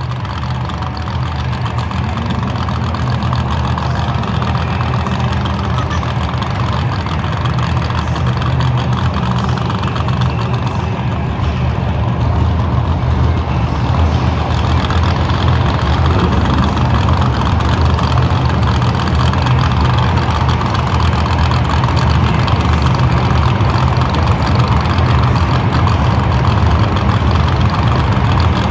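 Monster truck engines idling and running at low speed as the trucks drive slowly out, with a deep, steady engine sound that grows gradually louder over the first half and then holds.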